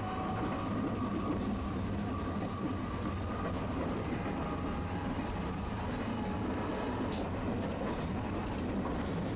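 Tram running along its street track, a steady low rumble of wheels on rails with a faint steady motor whine over it and a few light clicks, heard from inside the car.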